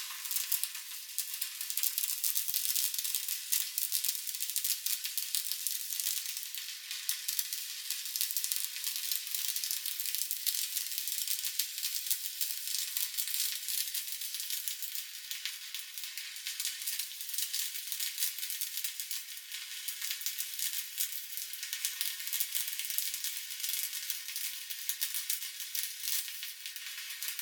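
Stick (SMAW) welding arc burning steadily on steel plate: a continuous sizzling crackle of fine pops as a fillet bead is run.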